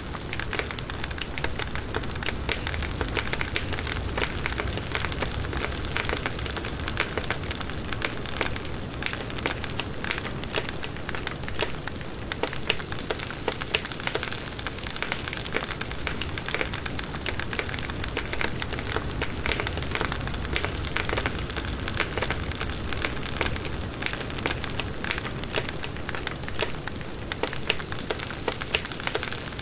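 Firewood burning in a campfire: a dense, steady crackle of many small pops over a soft hiss.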